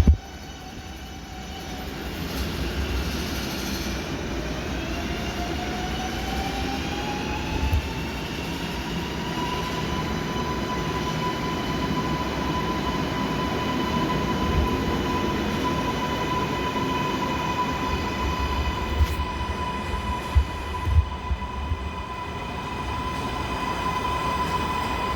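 MARTA rapid-transit train running with a motor whine that rises in pitch over several seconds as the train speeds up, then holds steady over a rumble. A few short knocks come about eight seconds in and near the end.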